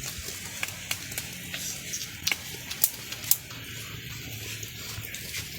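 Wood campfire crackling and popping with a steady hiss: irregular sharp snaps, the loudest a few clustered between about two and three and a half seconds in.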